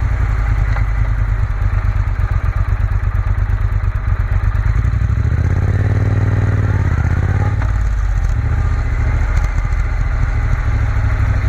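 Triumph Bonneville T120's parallel-twin engine running steadily while riding, heard from on the bike with wind and road noise over it. About midway the engine note rises and falls again.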